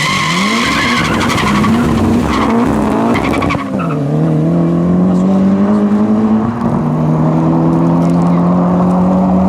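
Two drag cars, the rear-wheel-drive Mk2 Golf with a twin-turbo 2.7-litre V6 and a Nissan, launching hard with tyre squeal, then accelerating away at full throttle. The engine note climbs in pitch, drops at upshifts about three and a half and six and a half seconds in, and climbs again.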